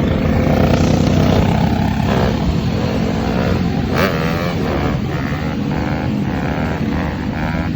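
Dirt bike engines running and revving, with the pitch rising and falling; a sharp click about four seconds in.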